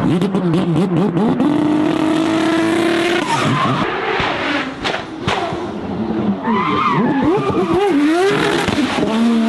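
High-performance car engine revving and accelerating hard, its pitch climbing steadily through a gear before dropping away, with a few sharp exhaust pops about five seconds in.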